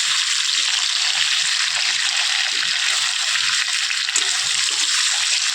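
Food frying in a hot pan: a steady sizzle, with faint soft knocks scattered through it.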